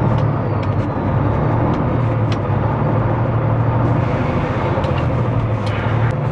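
Semi truck's diesel engine and road noise heard from inside the cab while driving, a steady low drone with scattered light clicks.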